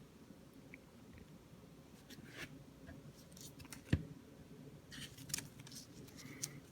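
Soft rustling and sliding of trading cards and their plastic packaging being handled, in short scattered bursts, with one sharp click about four seconds in.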